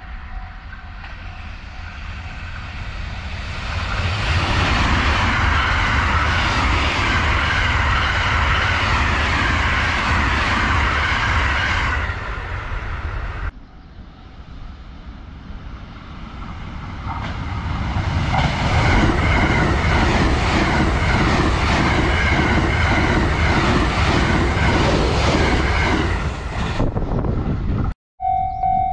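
Two trains passing on electrified double track, one after the other. Each is a building rush of wheel and rail noise that holds loud for several seconds, the second with a quick rhythmic clatter of wheels over the track.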